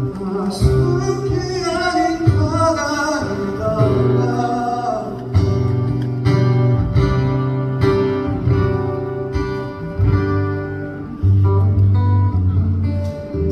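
Live band music led by strummed acoustic guitar over bass notes, with singing in the first few seconds.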